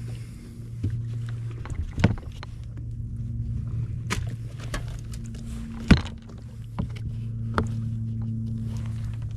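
Sea-Doo personal watercraft engine running steadily at low speed, with several sharp knocks and clunks over it, the loudest about six seconds in.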